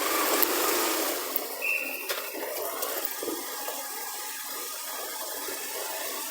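Steady rushing of wind and road noise on a smartphone's microphone as a motorcycle rides off a ferry. It is loudest for about the first second, then eases to a lower, even level, with a few faint clicks.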